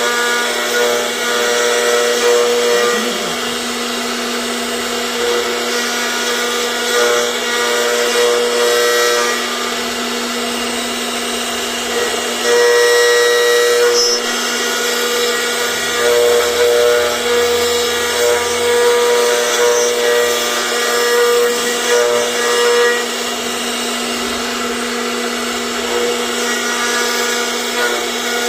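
CNC router spindle running with a steady hum while the bit carves, the cutting noise growing louder and easing off every few seconds as the bit works through the material.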